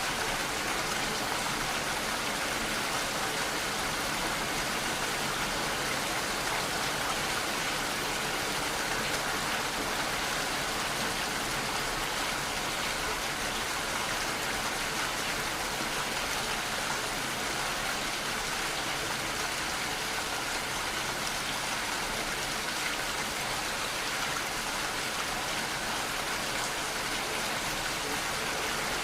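Steady rainfall, an even hiss of many raindrops falling on surfaces, unchanging throughout.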